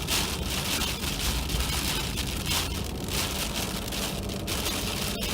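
Freezing rain and hail-like ice pellets pelting the plow truck in a dense, really loud patter, over the truck's steady low rumble.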